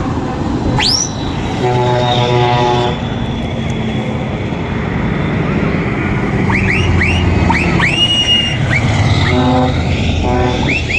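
Lorry air horns sounding in short blasts, a long one a couple of seconds in and two shorter ones near the end, over the steady rumble of truck engines. Several high, quickly rising whistles sound in between.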